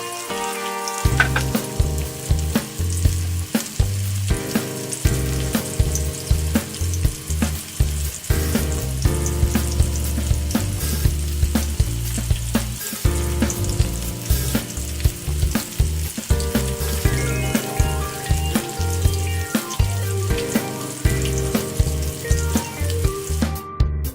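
Food sizzling as it fries in hot oil, under background music with a bass line and a steady beat.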